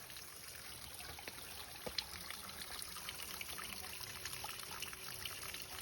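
Small waterfall trickling and splashing steadily, with many small ticks through it and one sharper click about two seconds in.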